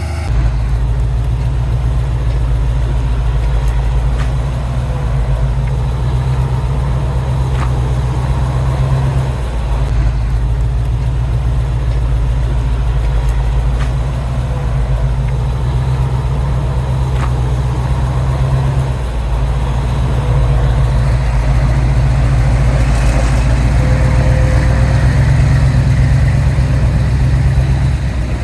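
Heavy diesel engine of construction machinery running steadily with a deep low rumble, growing a little louder about twenty seconds in.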